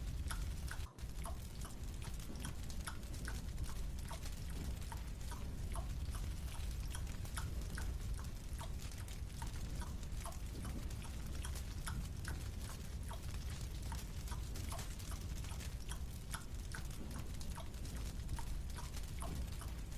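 Steady run of small, quick chewing clicks, a few each second, as a marshmallow is eaten, over a constant low hum.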